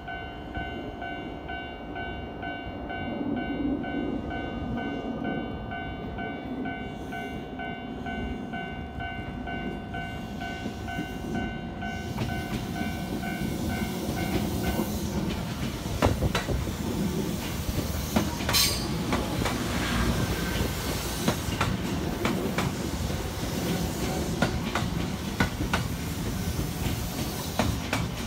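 JR West 225 series six-car electric train rolling past at close range. Its running noise grows about halfway through, and the wheels click sharply over rail joints as the cars go by.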